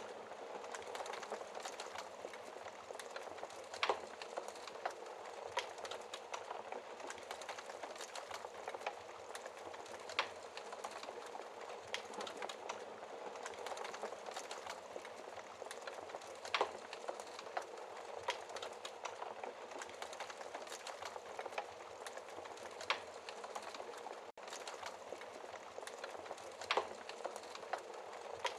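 Wood fire burning in a fireplace: steady crackling and hissing with a sharp pop every few seconds.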